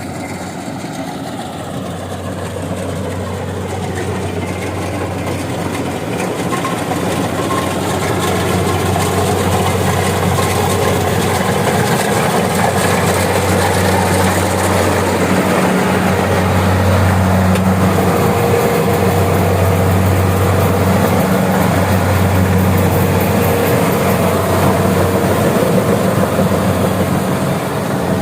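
Kubota DC-70 Plus rice combine harvester running, a steady low engine drone that grows louder over the first several seconds and then holds.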